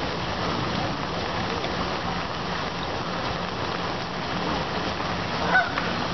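Steady rain falling, an even hiss. A brief louder sound about five and a half seconds in.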